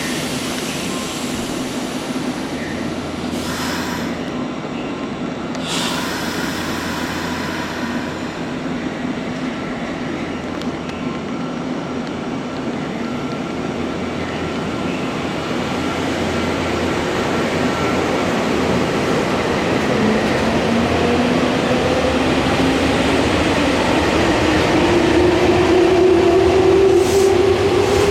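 Nankai electric train on the line, a steady rumble of wheels and running gear with two short bursts of noise about four and six seconds in. From about halfway its traction motors set up a whine that rises in pitch and grows louder as the train accelerates.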